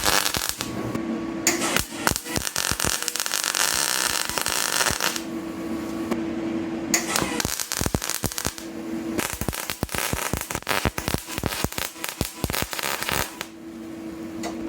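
Welding on steel exhaust pipe: dense crackling in three runs of a few seconds each, with short pauses between them in which a steady hum is heard.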